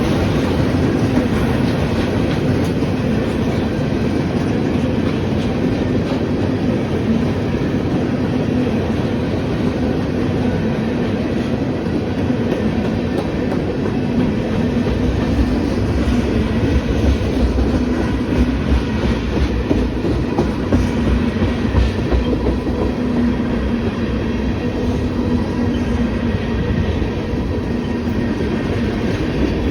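Freight cars of a manifest train rolling steadily past on the rails, with a constant rumble and sharper wheel knocks in the second half.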